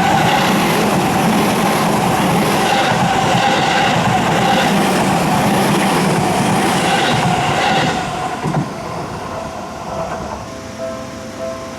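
A Seibu Ikebukuro Line train passing close by with a loud rush and clatter of wheels on rails, fading away about eight seconds in.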